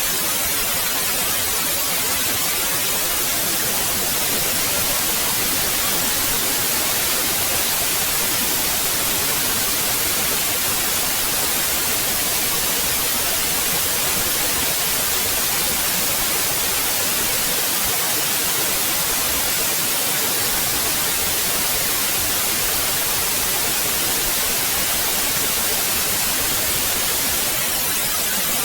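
Steady white noise: an even, unbroken hiss strongest in the high frequencies, with no change in level.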